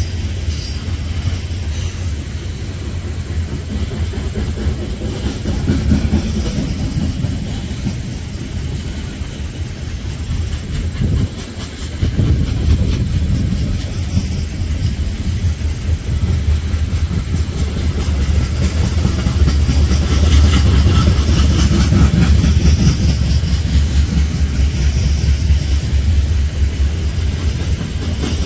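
A train running past close by: a continuous heavy rumble of wheels on rail. It dips briefly a little before the middle, then grows louder in the second half.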